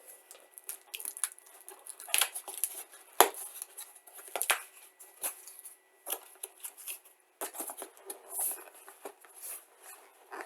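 A cardboard shipping box being opened by hand and a tightly packed kit box worked out of it: irregular scraping and rustling of cardboard with scattered clicks, and a sharp knock about three seconds in.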